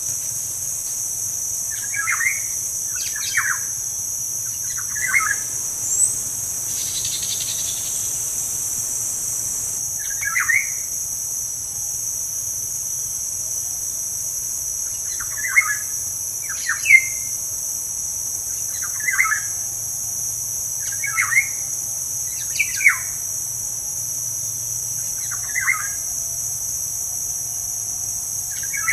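A bird gives short chirping calls, about a dozen, spaced a second or several apart, over a steady high-pitched drone of insects.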